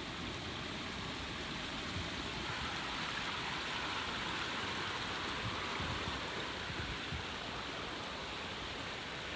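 A small stream running over rocks, a steady rushing of water.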